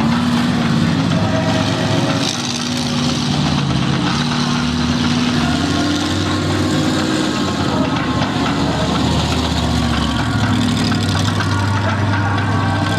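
Monster truck engines running, the pitch rising and falling a little as the trucks are driven slowly around.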